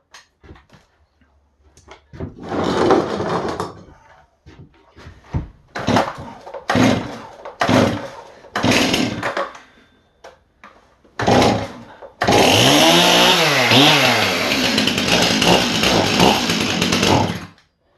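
Stihl MS 291 two-stroke chainsaw being pull-started: several short pulls, then it catches about twelve seconds in and runs for about five seconds with a rev up and back down before it is shut off.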